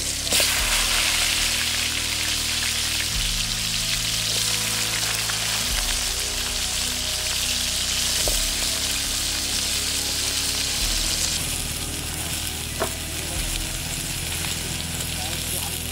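Brinjal (eggplant) pieces sizzling steadily as they fry in hot oil in a kadai, a dense continuous hiss and crackle.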